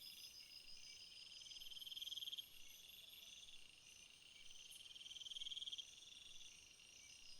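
A chorus of chirring insects: several high, faint trills overlap without pause. One trill swells louder twice, about two seconds in and again about five seconds in, and each time breaks off sharply.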